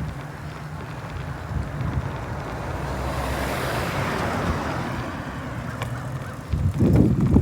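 A car passing by, its tyre and engine noise swelling to a peak mid-way and fading away, over a steady low wind rumble on the microphone from riding a bicycle. A brief louder low buffet of wind near the end.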